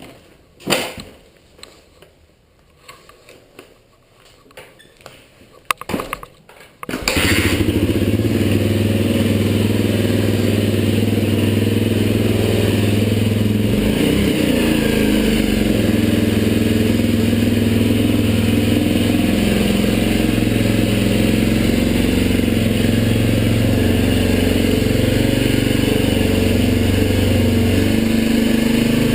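Suzuki DR-Z125L dirt bike's single-cylinder four-stroke engine catching about seven seconds in, after a few knocks and clicks, then idling steadily: a cold start in freezing weather.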